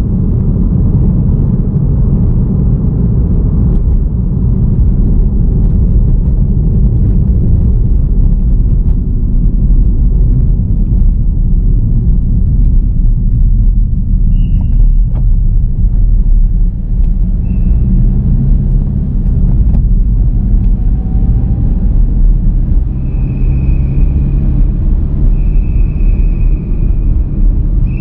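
A car driving along a road, a loud steady low rumble of tyre, engine and wind noise. About halfway through and again several times near the end come short high steady tones.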